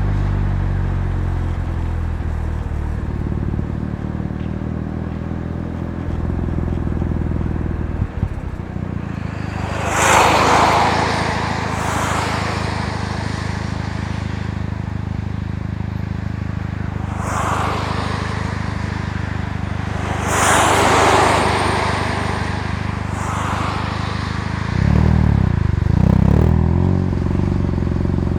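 Mazda FC3S RX-7's turbocharged rotary engine running through a Knight Sports Regal Sports aftermarket muffler while driving. The note eases down near the start and swells again near the end, with a single sharp click about eight seconds in and several rushing swells of noise passing through.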